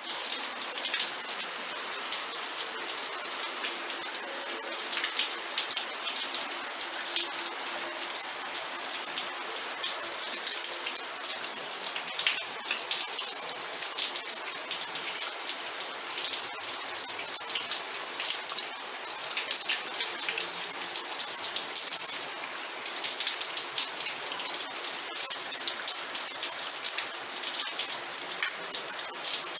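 Steady rain falling on a surface, a dense even hiss full of countless small drop ticks.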